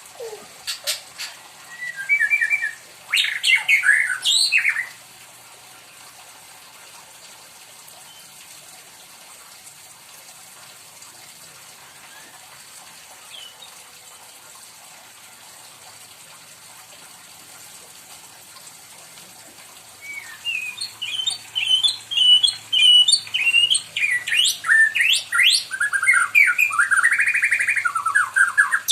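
Pet white-rumped shama (murai batu) singing: a few short phrases of whistles and chirps in the first five seconds, a pause, then from about twenty seconds in a fast, varied run of whistles and chirps.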